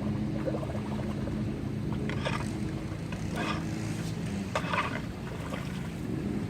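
Floodwater swirling and gurgling down a street storm drain in a whirlpool, with a few splashy gurgles about two, three and a half and four and a half seconds in, over a steady low motor hum.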